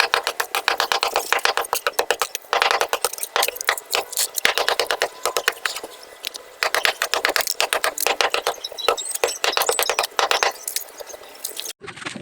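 Rapid rattling clicks in dense runs with short pauses, cutting off abruptly near the end.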